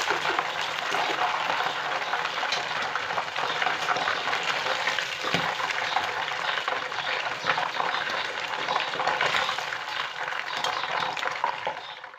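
Food sizzling and crackling in hot oil in a pan while being stirred. The sound fades a little near the end, then stops abruptly.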